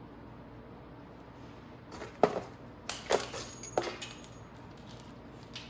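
A few sharp clicks and snaps, about four in under two seconds beginning around two seconds in: a cutter snipping through the ties that hold a motorcycle to its shipping crate.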